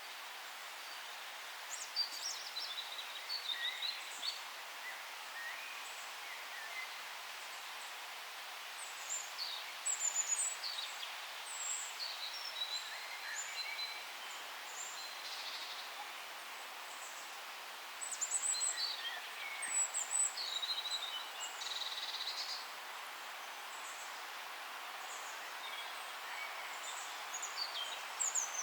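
Several small songbirds chirping and trilling in bouts, over a steady hiss of forest ambience.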